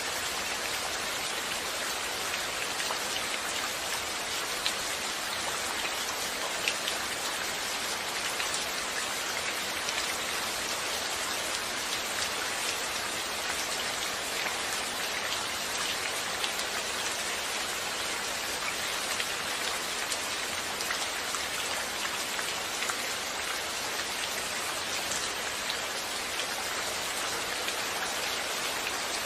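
Steady rainfall: an even hiss of rain with many small drop ticks hitting a surface.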